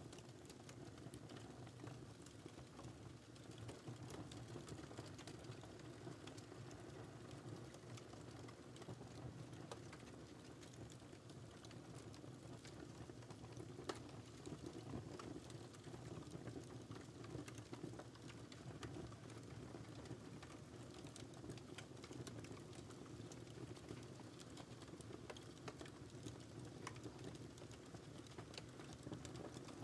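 Wood fire crackling: scattered small pops and snaps over a low, steady rumble of the flames, with one sharper pop about fourteen seconds in.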